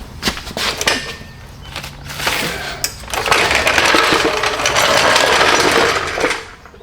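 A few knocks, then a power tool running steadily for about three seconds before stopping.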